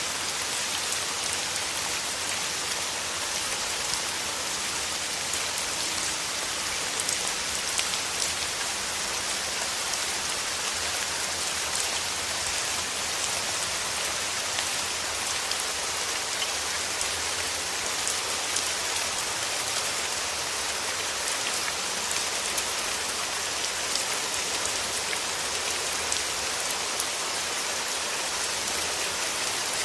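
Steady rain: an even hiss of falling drops with many small, sharper drop ticks scattered through it.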